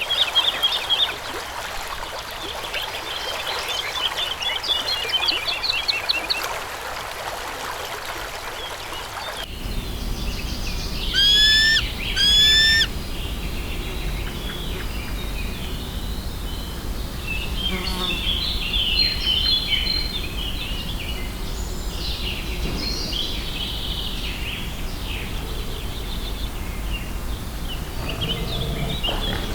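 Wild birds chirping and trilling. After a cut there are two loud, rising whistled calls about a second apart, then scattered chirps over a steady low background noise.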